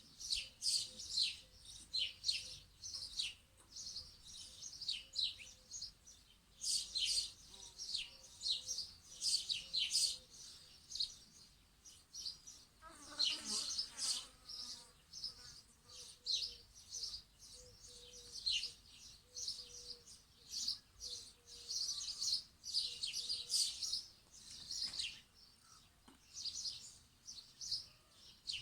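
Small birds chirping in quick, short, high calls that overlap one another throughout, with one lower, stronger call about 13 seconds in.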